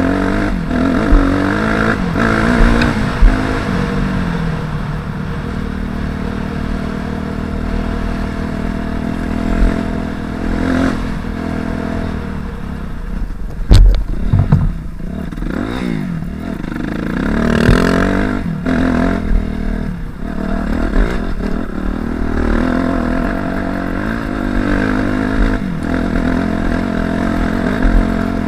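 Single-cylinder four-stroke engine of a 2005 Suzuki RM-Z250 dirt bike, revving up and falling back over and over while being ridden, with clattering throughout. A loud sharp thump comes about 14 seconds in.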